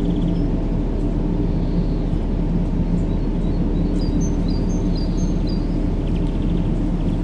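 Steady low rumbling white noise for baby sleep, with a faint hum in it, running without change. Faint bird chirps come in about four seconds in, with a short trill near the end.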